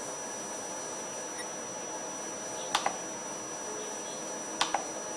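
Two quick double clicks of a computer mouse, a little under a couple of seconds apart, over steady room hum with a faint high-pitched whine.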